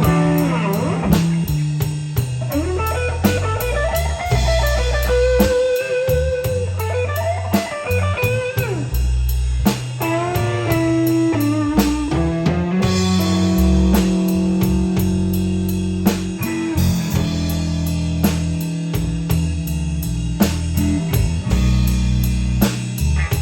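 Blues band playing an instrumental break: a guitar lead with bending, gliding notes over bass and a steady drum kit beat, settling into held chords in the second half.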